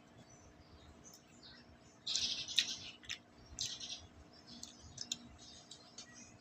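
Mouth sounds of someone eating: wet clicks and smacks of chewing in short bursts, starting about two seconds in.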